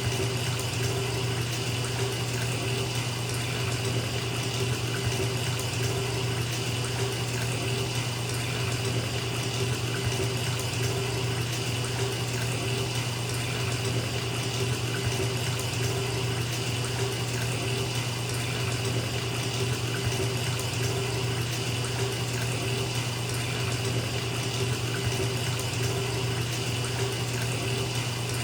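Bathtub tap running, water pouring steadily into the tub as it fills: an even, unbroken rush with a low hum underneath.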